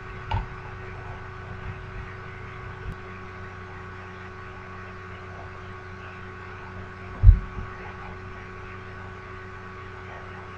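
A steady hum made of several held tones, broken by a soft low thump just after the start and a louder low thump about seven seconds in.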